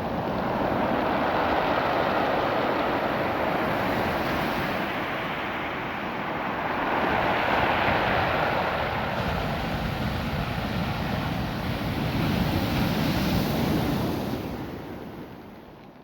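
Ocean surf washing up and drawing back over a beach of small rounded stones, the pebbles rattling in the backwash. The sound swells twice and fades away near the end.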